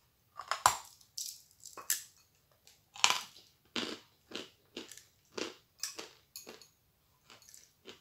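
A person biting into a kurabye shortbread cookie and chewing it with crunches about twice a second; the loudest crunches come near the start and about three seconds in.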